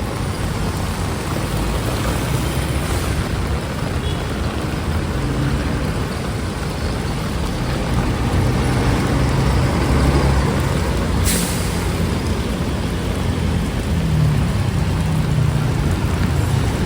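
Road traffic in heavy rain: a motor vehicle's engine runs close by over a steady hiss of rain. There is a brief sharp noise about eleven seconds in.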